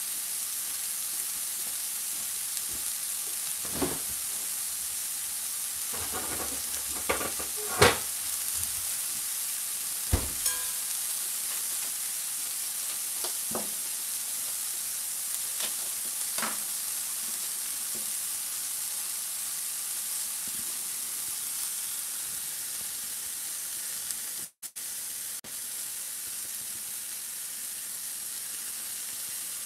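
Sliced mushrooms frying in pans: a steady sizzle, with a few sharp pops and ticks in the first half. The sound cuts out for a moment near the end.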